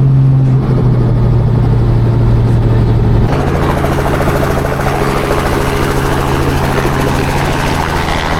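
Helicopter engine and rotor noise: a loud, steady drone over a low hum, changing character about three seconds in.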